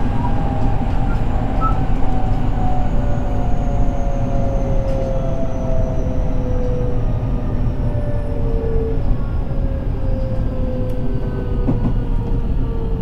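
JR West 223 series 2000 electric train running: a steady rumble of wheels on rail, with the traction motors' whine gliding slowly down in pitch as the train slows.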